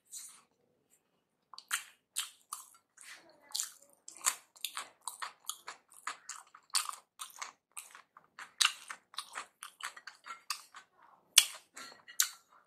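A mouthful of chicken biryani chewed close to the microphone: a quick, irregular run of wet mouth smacks and clicks that starts after a short pause about a second and a half in.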